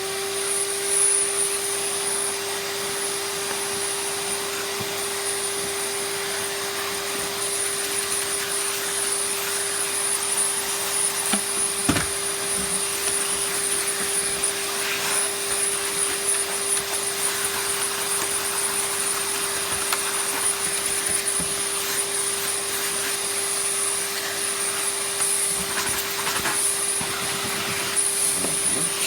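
Vacuum cleaner running steadily with a constant motor hum and a high whine, sucking up dirt scraped out of a Dyson DC50's cyclone mesh area. A single knock about twelve seconds in.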